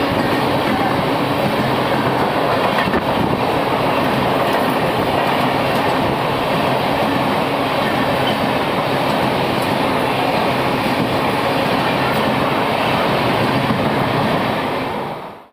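Coaches of an Indian express train passing through a station at speed: a steady, loud rush of wheels running on the rails.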